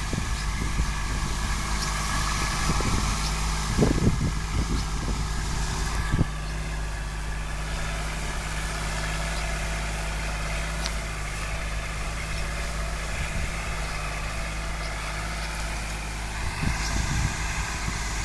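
Kubota L3800DT compact tractor's three-cylinder diesel engine running steadily. Several thumps come in the first six seconds and again near the end.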